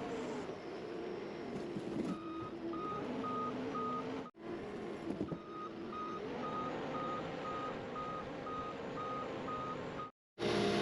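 Skid steer engine running, its pitch dropping and rising again as the machine works, with the backup alarm beeping steadily about two and a half times a second as it reverses.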